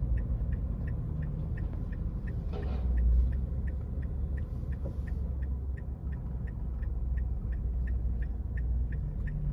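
Car cabin road rumble with the turn signal ticking steadily, about three ticks a second; a brief rustle a little under three seconds in.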